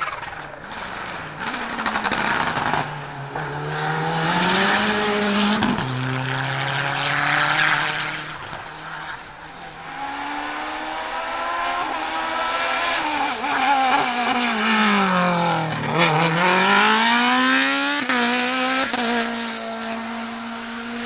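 Hillclimb race car's engine at high revs, climbing through the gears with the pitch rising and then dropping at each shift. About three quarters of the way in the revs fall sharply and then climb again as the car accelerates on.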